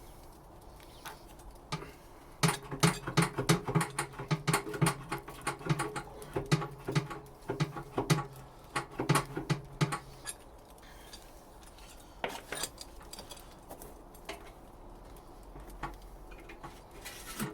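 A pry bar knocks and scrapes rapidly against a Nissan CA18ET engine's oil pan to break the sealant bond, with the metal ringing faintly under each knock. This runs for several seconds. It stops about ten seconds in, giving way to quieter scattered clicks of handling.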